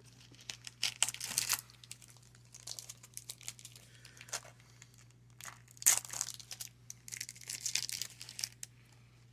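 A trading card pack wrapper being torn open and crinkled, in several bursts of crackly rustling. The loudest come about a second in, around six seconds in, and again between seven and eight and a half seconds.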